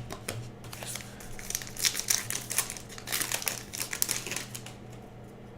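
Crinkling and crackling of a trading-card pack's wrapper and cards being handled, in dense bursts of small clicks that die away near the end, over a steady low electrical hum.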